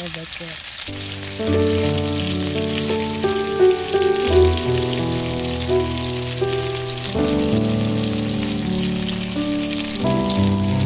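Shrimp sizzling as they fry in hot oil, a steady fine crackle throughout, under background music of held notes that change in steps.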